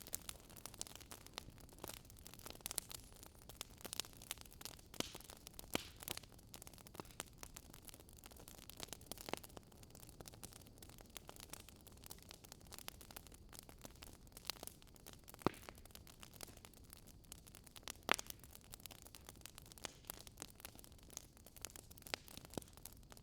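Wood fire crackling softly, with irregular sharp pops and snaps over a low hiss.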